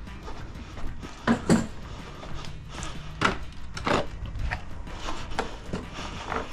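Knocks and clunks as a drain inspection camera is fed down into a sewer pipe: two loud ones about a second and a half in, then a few more spaced out, over a steady low rumble.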